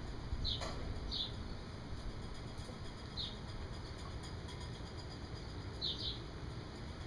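A bird chirping: four short, high chirps spread over several seconds, over a steady low rumble.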